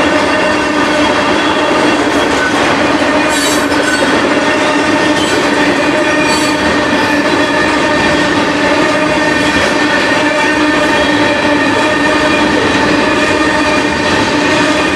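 Freight tank cars rolling past close by: a steady rumble of steel wheels on the rails with a continuous high squealing whine from the wheels, and a couple of sharp clicks about three and six seconds in.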